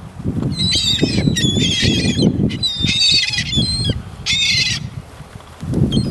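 Seagulls calling: a quick series of short, harsh squawks, several overlapping, over a low rumble.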